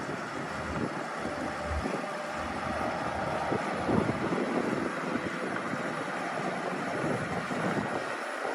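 Diesel engine of a Shantui DH17-C2 bulldozer running steadily while the machine pushes dirt, with wind buffeting the microphone.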